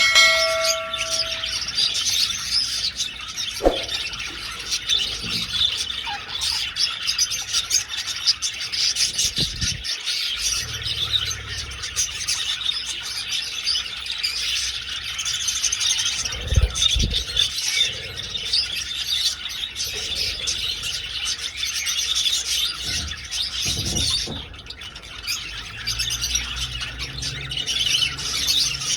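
A flock of budgerigars chattering and chirping continuously, a dense warble of many overlapping high chirps. A short ringing tone sounds at the start, and a few low thumps come in the second half.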